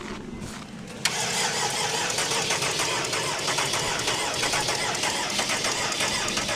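A frozen car's engine being cranked by its starter in extreme cold, turning over with an even, rapid pulsing but not yet catching: the cold, thick oil keeps it from turning over fast enough to fire, though it is close to starting. The cranking cuts in suddenly about a second in.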